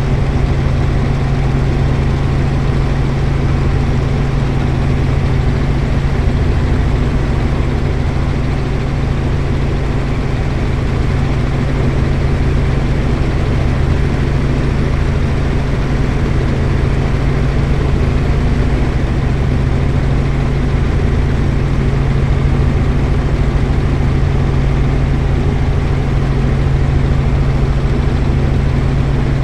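Helicopter in flight: a loud, steady drone of engine and rotor with a strong low hum that does not change.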